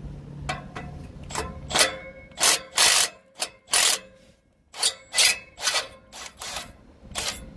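Ratchet wrench clicking in short, irregular strokes as a spring-loaded 14 mm exhaust flange bolt is backed out.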